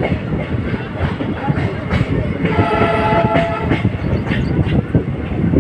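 Passenger train running along the track, a steady rumble of wheels on rails with clicks. About two and a half seconds in, a train horn sounds once for about a second.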